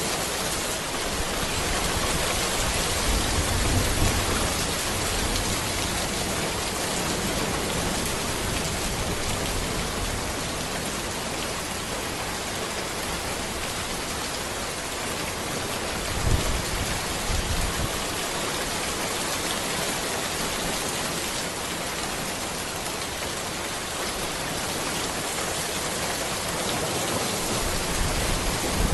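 Steady rain falling on a road, an even hiss of many drops. Low rumbles rise under it about three seconds in and again about halfway through.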